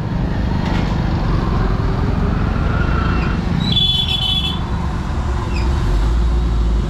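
Street traffic: vehicle engines running in a steady low rumble, with a brief high-pitched tone about four seconds in.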